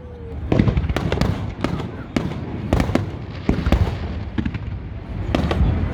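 Fireworks display: aerial shells going off in quick succession, several bangs a second over a continuous low rumble.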